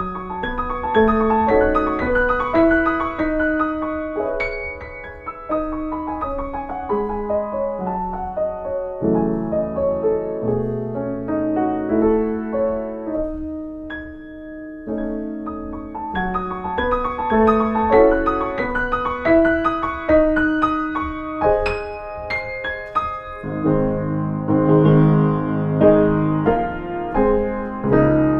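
Solo piano playing a flowing prelude, a continuous stream of notes over held bass notes. From about three-quarters of the way through, the texture grows fuller, with heavier chords in the low register.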